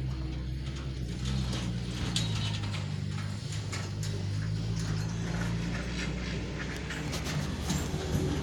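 A vehicle engine running with a low, steady drone, overlaid with a lot of loose rattling and clattering.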